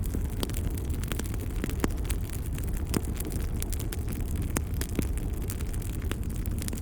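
Wood fire crackling, with frequent sharp irregular pops over a steady low rumble of the burning fire.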